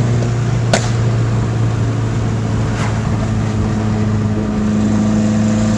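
Honda Integra's four-cylinder engine running at a steady speed, with a sharp click about three-quarters of a second in.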